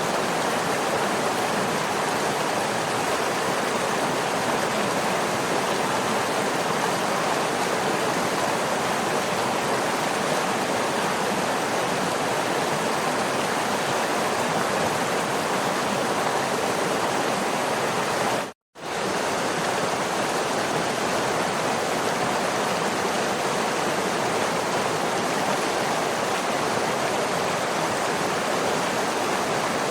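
Waterfall rushing, a steady even roar of falling water with no changes. About two-thirds of the way through, the sound cuts out completely for a fraction of a second and then resumes.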